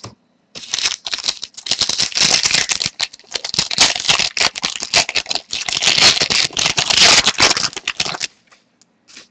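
Trading card pack being opened and its cards handled: a dense crackle of the wrapper and cards for about eight seconds, stopping shortly before the end.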